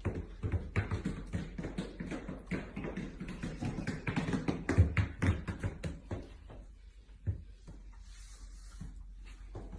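A rapid, irregular run of taps and knocks, dense for about six seconds, then only a few scattered ones.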